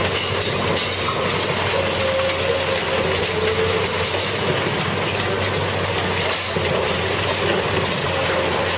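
Heavy industrial shredder running under load: a steady grinding din with a wavering drone and scattered sharp metallic clicks and knocks.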